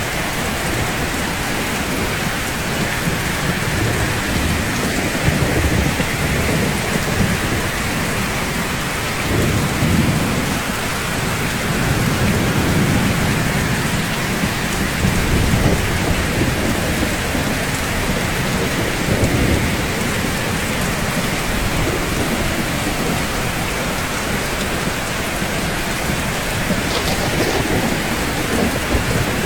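Steady rain falling on rooftops, a constant hiss, with low rumbles of thunder swelling and fading several times, strongest about ten and fifteen seconds in.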